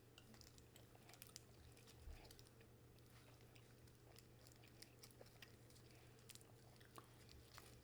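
Faint chewing: small scattered clicks and mouth sounds of people eating a meat snack stick, over a steady low hum.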